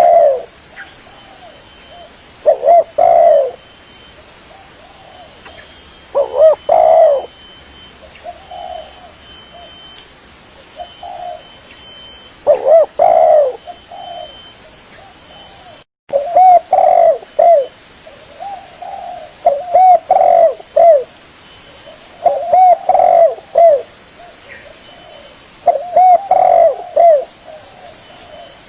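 Spotted dove cooing: loud phrases of a few low coos repeat every few seconds, with fainter coos in between. There is a brief dropout in the sound about halfway through.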